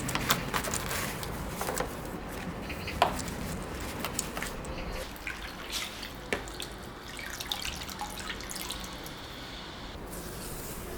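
Water dripping and splashing in irregular drops and small ticks while a window frame track is cleaned.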